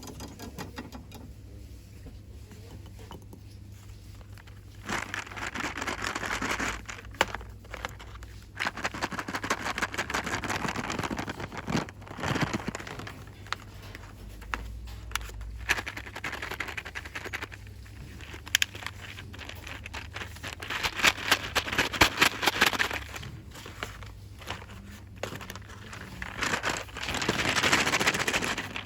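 Rustling and crinkling of store-bought items and their packaging worked by hand, in bursts a few seconds long, with scattered sharp taps and clicks between them.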